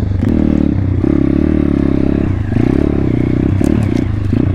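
Single-cylinder engine of a 2019 Thumpstar 140cc pit bike running under load through mud, its pitch rising and falling several times as the throttle is worked, with some clattering from the bike.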